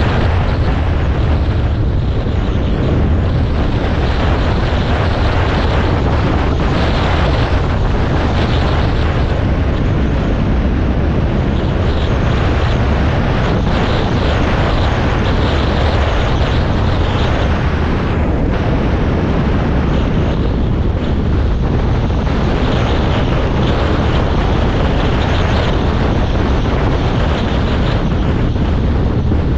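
Dirt bike engine running steadily while riding along a gravel road, with wind rushing over the microphone.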